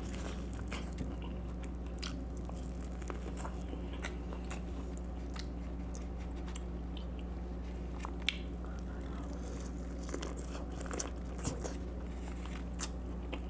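A person biting and chewing corn on the cob close to the microphone: scattered short crunches and wet clicks of kernels, over a steady low hum.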